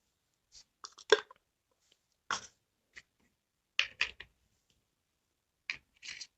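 Handling noise of containers being picked up and set down: a handful of short knocks and rustles spread over a few seconds, with the loudest about a second in. No engine is running.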